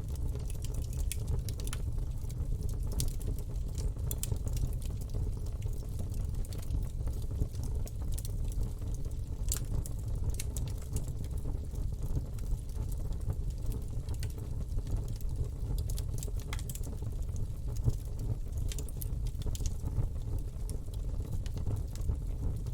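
Campfire burning: a steady low rumble with irregular sharp crackles and pops from the burning wood.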